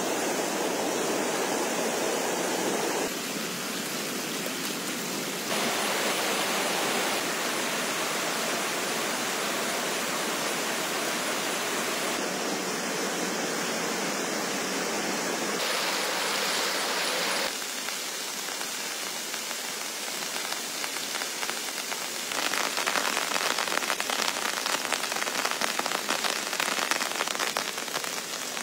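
Heavy rain falling: a dense, steady hiss that jumps in level and tone every few seconds. From about two-thirds of the way in, many fine drop impacts on a surface patter over it.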